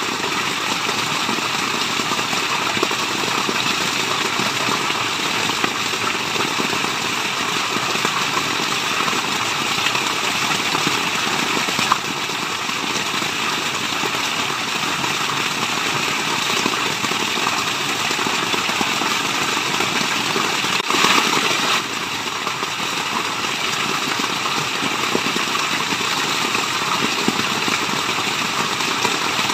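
Steady rushing water, an even roar from a waterfall, with a brief slight swell about 21 seconds in.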